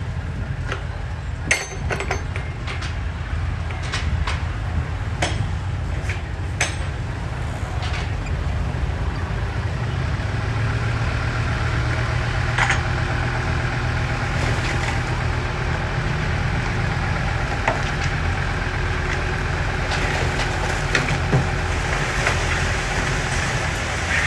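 Heavy diesel engine of earthmoving equipment running steadily with a deep rumble, with several sharp knocks in the first few seconds.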